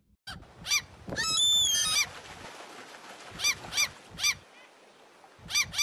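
A bird giving short, sharp, high calls in quick twos and threes, with a longer, louder, harsh stretch about a second in.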